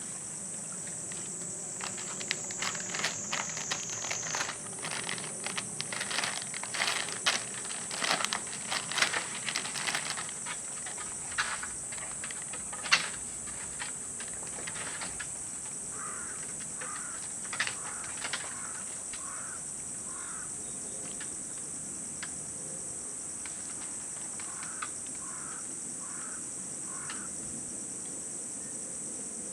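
Insects chirring steadily on one high note, with a run of sharp clicks and taps through the first half and two short series of quick, evenly spaced calls later on.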